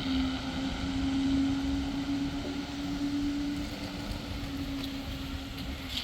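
Fire truck running slowly, its engine giving a steady drone with a whine that sags slowly in pitch over a low rumble.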